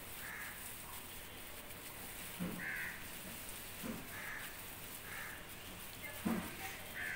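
A bird gives short harsh caws, five times at uneven intervals of one to two seconds, over a few dull knocks.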